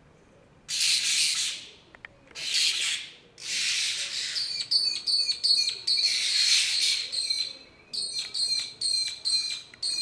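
Birds giving harsh scolding alarm calls as they mob a cat: three rasping bursts about a second long, then rapid sharp repeated notes about two or three a second with another long burst in the middle.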